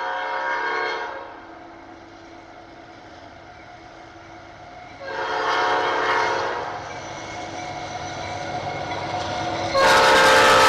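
Locomotive air horn sounding for the grade crossing: a chord blast fading about a second in, a second blast a few seconds later, and a much louder third blast starting near the end as the train closes in.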